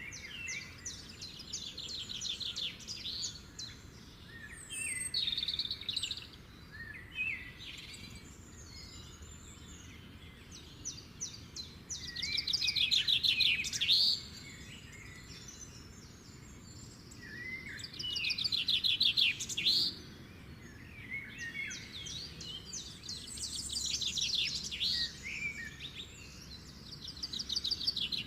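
Small birds chirping, with rapid trills a second or two long coming again and again, over a steady low background noise.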